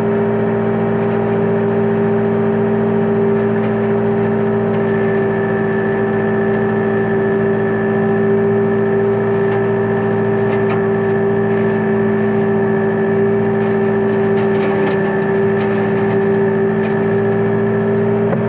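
Tractor engine and tractor-mounted hedge trimmer running steadily under load while cutting a hedge, with a steady whine that sets in about five seconds in and scattered ticks and crackles.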